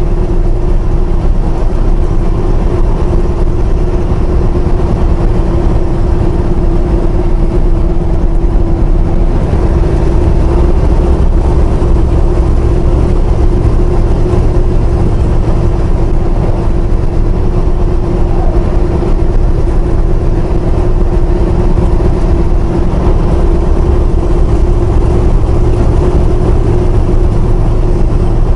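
Semi-truck cab interior while driving: the engine and road noise make a loud, steady drone with a constant hum running through it.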